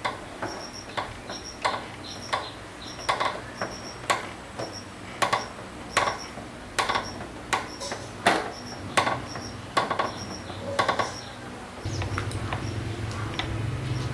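Repeated sharp metallic taps and clinks at uneven intervals, some ringing briefly, like metal tools or parts being struck or set down. About twelve seconds in, a steady low motor hum starts abruptly.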